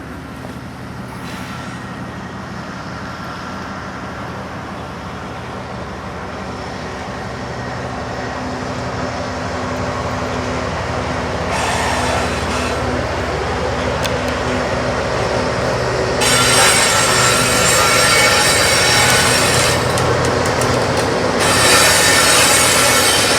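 Diesel-hauled train approaching and passing: a low engine rumble grows steadily louder, then about two-thirds of the way in a loud hissing squeal of wheels on the rails takes over. It drops back briefly and returns near the end.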